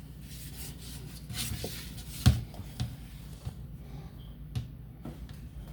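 Scrubbing and rubbing on refrigerator surfaces with a baking soda and vinegar paste, broken by scattered knocks and clicks as things are handled. One sharp knock about two seconds in is the loudest.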